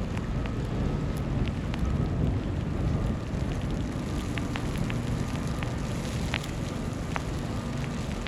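Snowstorm street ambience: a steady low rumble of wind and distant city noise, with scattered small ticks throughout.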